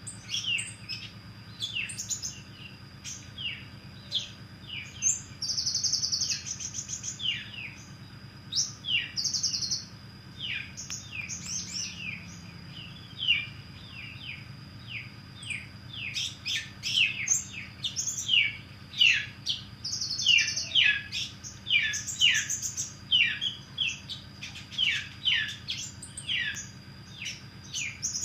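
Sunbird (Indonesian 'kolibri') singing: a fast, lively run of short falling chirps, broken now and then by brief buzzy trills. A thin steady high tone and a low hum sit beneath the song.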